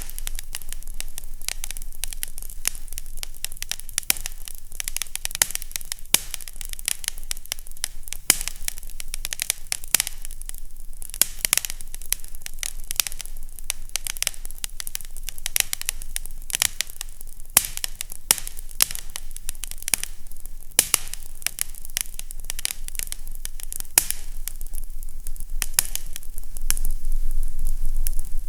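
Fireplace crackling: a dense run of sharp pops and snaps over a faint low hum.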